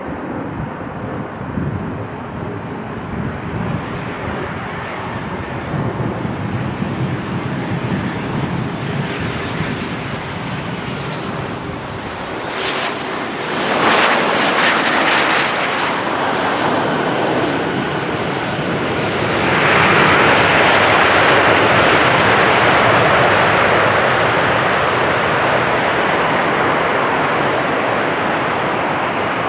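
Boeing P-8A Poseidon's twin CFM56 turbofan engines during landing: a steady jet rush that builds, peaks about 13 to 16 seconds in, eases off briefly, then grows louder again about 20 seconds in and holds.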